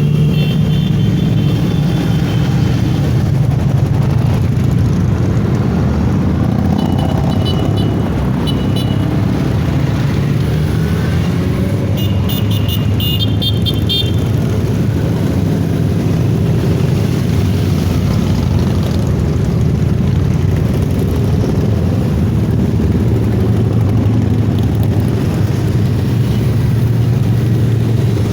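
Motorcycle engine running steadily under way, with wind rush. A few short high-pitched toots sound about a third of the way in and again near the middle.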